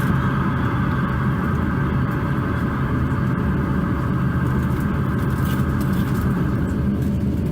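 Steady low rumble and hum inside the cabin of an Airbus A350-900 airliner on the ground before takeoff.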